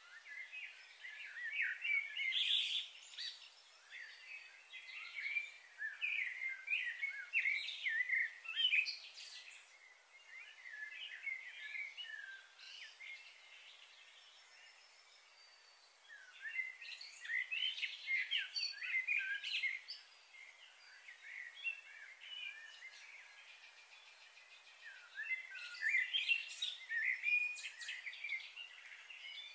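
Several small birds chirping and twittering in three busy bursts, with quieter spells between them.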